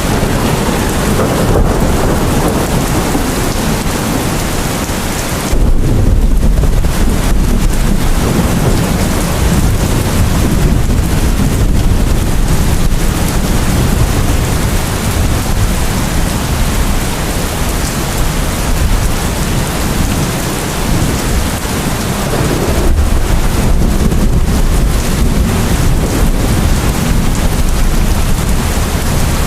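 Rain falling steadily, with thunder rumbling twice: a low rumble sets in suddenly about five seconds in, and another comes near the end.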